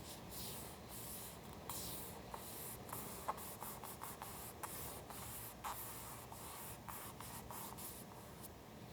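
Paper being handled for a collage: a run of short, scratchy rustles and rubs with a few light ticks, which stop near the end.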